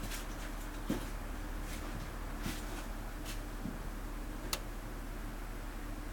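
A few faint, scattered clicks and knocks over a steady low hum; no engine is running yet.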